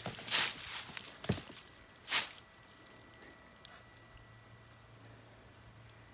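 Four short rustling steps, as of feet through grass or brush, in the first two seconds or so, then only a faint steady hum.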